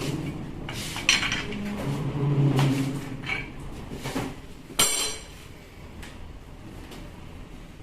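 Metal parts of a rotary hammer being handled and set down during disassembly: a string of clinks and knocks, the loudest about five seconds in with a short metallic ring.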